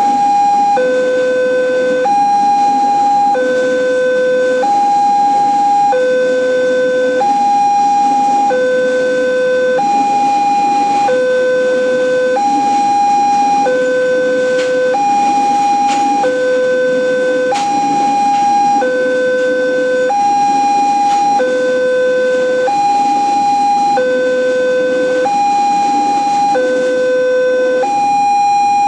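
Railroad level-crossing warning alarm sounding continuously: an electronic two-tone signal alternating between a low and a high note about once a second, the warning that a train is approaching. A low steady rumble runs underneath.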